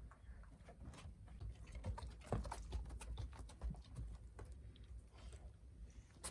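Pets' claws clicking and paws tapping on a hard floor in quick, irregular bursts as they scamper and play.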